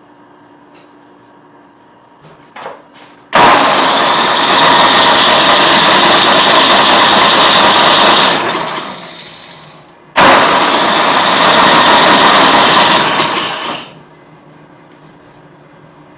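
Electric starter cranking the Tecumseh HSSK50 Snow King engine of an Ariens 824E snowblower in two long attempts, about five and four seconds, without the engine catching. The engine isn't getting fuel.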